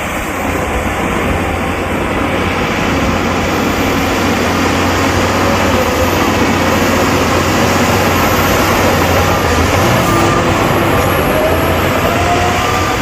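Diesel engine of a heavy earthmoving machine running under load: a loud, steady low drone with a whine that rises in pitch over the last few seconds.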